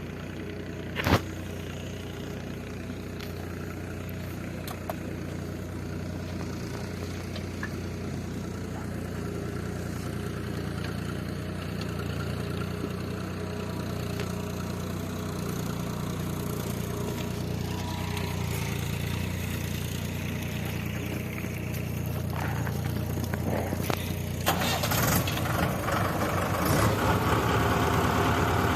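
Diesel vehicle engine running steadily, with a sharp click about a second in; it gets louder near the end.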